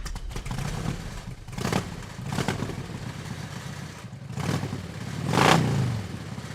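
Motorcycle engine running, revving up and dropping back several times.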